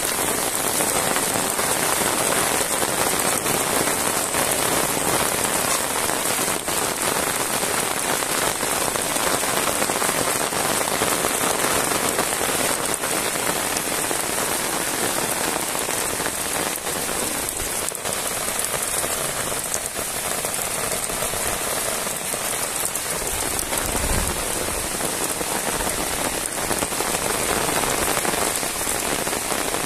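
Heavy rain falling steadily on a paved road and roadside grass and trees, a dense, even hiss of drops.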